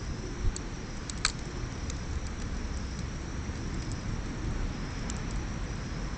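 Beach bonfire crackling, with scattered sharp pops (a louder one about a second in) over a steady low rumble.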